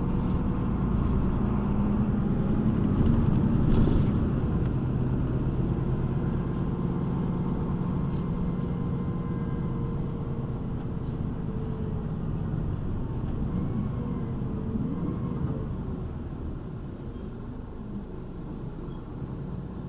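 City bus engine and road noise heard from inside the cabin while driving. It is loudest a few seconds in, with a few shifts in engine pitch, and eases off gradually toward the end as the bus slows.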